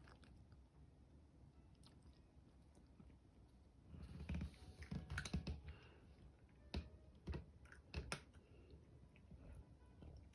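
A cat chewing and biting its food, heard as faint sharp clicks and short crunches that cluster between about four and eight seconds in.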